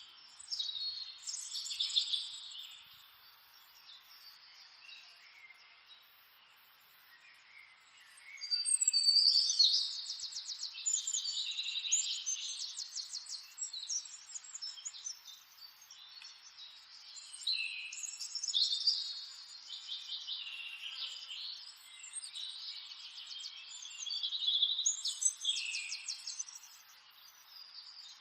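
Wild songbirds chirping, with high calls and fast rattling trills in bouts of a few seconds separated by short lulls.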